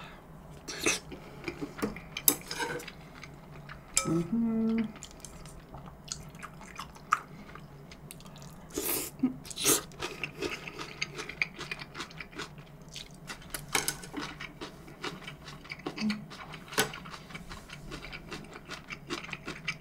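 Close-miked eating sounds: chewing and wet mouth smacks with scattered small clicks of utensils, and a short hum about four seconds in.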